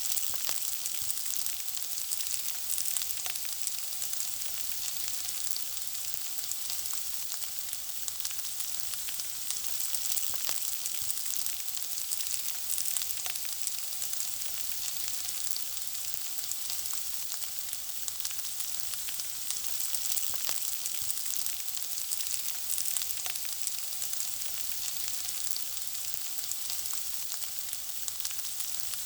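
Food frying in hot oil: a steady high sizzle with dense, irregular crackles and pops throughout.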